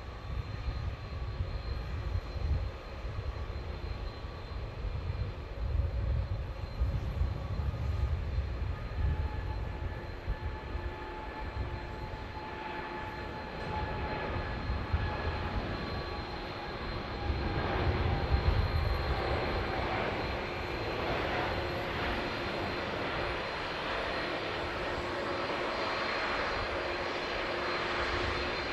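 Jet airliner engines running: a low rumble with a steady whine of several held tones that grows louder from about halfway through.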